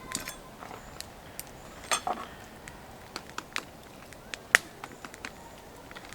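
Cookware and utensils clinking and clicking in a scattered, irregular way, with two louder knocks about two seconds and four and a half seconds in.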